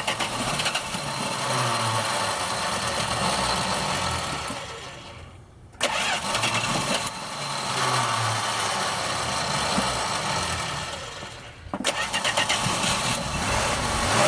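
Chrysler slant-six engine being started on gas poured into the carburetor: it fires and runs a few seconds before dying away, three times in a row, slightly flooded from too much poured gas.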